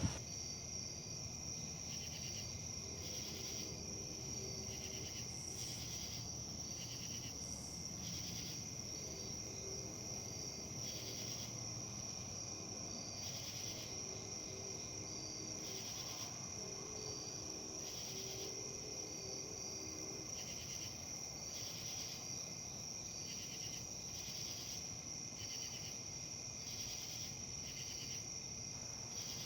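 Insects trilling steadily on one high note, with a softer chirping that pulses about once a second, over a low, even rush of wind.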